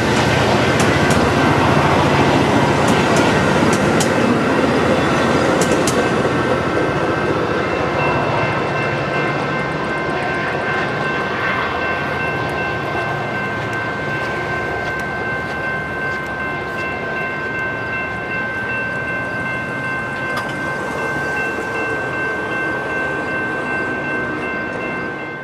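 Metra commuter train of bilevel gallery cars rolling past and pulling away, its wheels clicking sharply over the rails in the first few seconds. From about eight seconds in, a steady high ringing tone sits over the rolling noise as it slowly fades.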